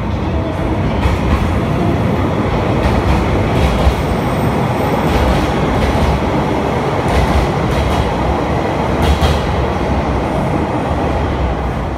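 JR Hokkaido electric commuter train running past along a station platform: a steady loud rumble of wheels on the rails, with a few faint clacks from the wheels.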